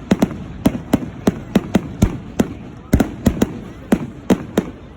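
Fireworks going off in a rapid, irregular string of sharp bangs, several a second, each dying away briefly before the next.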